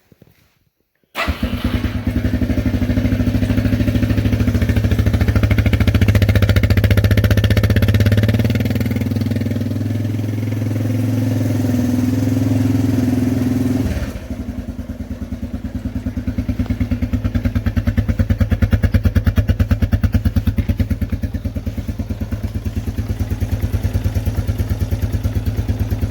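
Cold start of a 1986–87 Suzuki 230's single-cylinder four-stroke engine: it catches about a second in and runs at a fast, loud idle. About halfway through it drops to a lower, steady idle with an even pulse.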